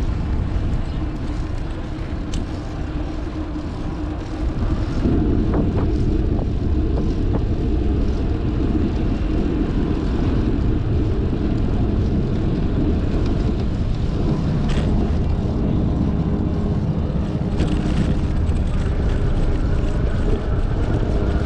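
Wind rumbling on an action camera's microphone while riding a bicycle: a steady low noise that gets louder about five seconds in.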